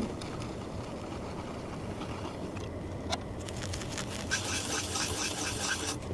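Steady low rumble of a hot-air rework station blowing during BGA desoldering. From about three seconds in there is a sharp click, followed by a dense run of small clicks and crackles.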